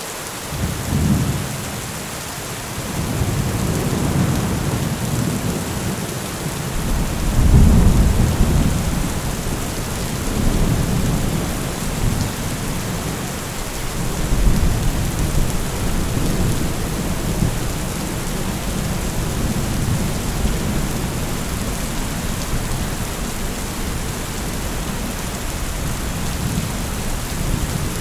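Heavy rain falling steadily with thunder rumbling over it. The low rumble starts about a second in, swells to its loudest about eight seconds in, comes again strongly about fourteen seconds in, then carries on as a softer continuous rumble.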